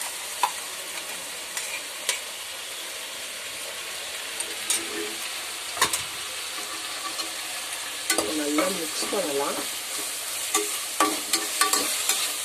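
Onions, prawns and ginger-garlic paste sizzling in hot oil in a kadai while being stirred with a spatula, with scattered scrapes and knocks against the pan.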